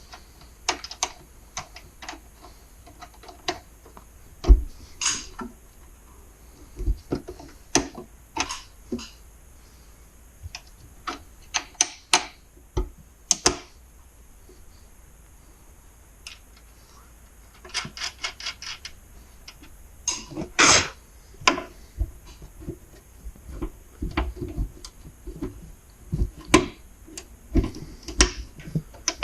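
Hand tools and metal hardware clicking and knocking at irregular intervals during work on a garage door opener, with a run of quick clicks about two-thirds of the way in.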